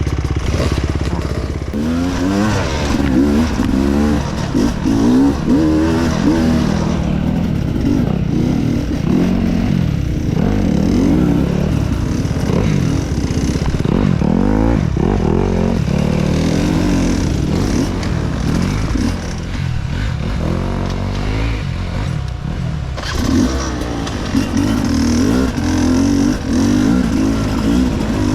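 Off-road dirt bike engine being ridden hard, revving up and down again and again, the pitch swinging every second or so. It eases off for a few seconds near the end, then picks up again.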